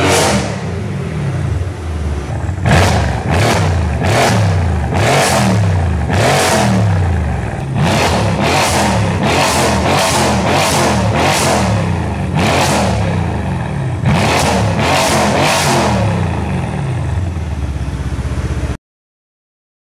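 Mercedes-AMG C63 W205's 4.0-litre twin-turbo V8, with decat downpipes and an Akrapovic Evolution exhaust, revved again and again: engine pitch climbs and falls repeatedly, with many short sharp cracks from the exhaust. The sound cuts off suddenly near the end.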